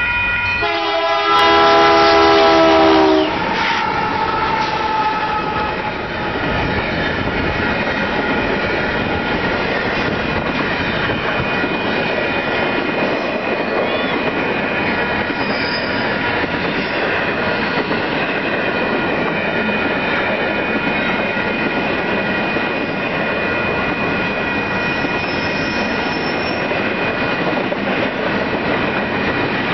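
Diesel freight locomotive's horn sounding a loud multi-note chord for about two seconds, starting about a second in, its pitch sagging slightly as the engine passes the crossing. Then the long rumble and clatter of freight cars rolling by, with steady high tones ringing over it.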